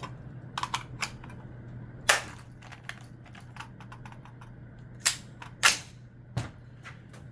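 Sharp metallic clicks and clacks of an AR-type rifle and its magazine being handled while trying to seat a magazine that won't go in. The loudest clack comes about two seconds in, with two more close together past the five-second mark.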